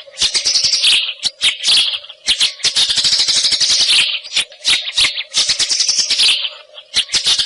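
White-rumped shama (wild forest murai) singing a loud, dense stream of rapid chattering and rattling phrases, with short breaks about two seconds in and again near the end.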